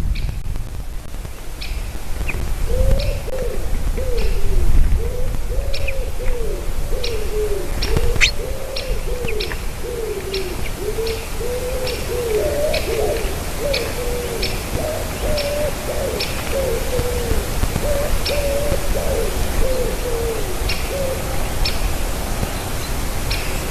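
Bird calls: a long run of short, low cooing notes at about two a second, with sharp high chips scattered over them, against wind noise.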